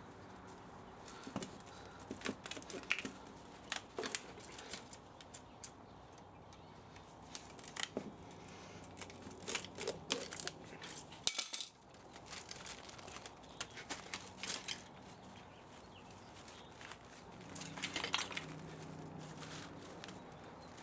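Irregular metallic clicks and clinks, some in quick clusters, of tools and metal parts being handled while an old electric spa motor is dismantled.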